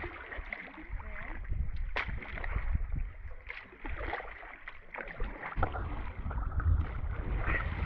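Canoe being paddled on choppy lake water: paddle strokes and small waves splashing against the hull, repeated every second or two, over a low wind rumble on the microphone.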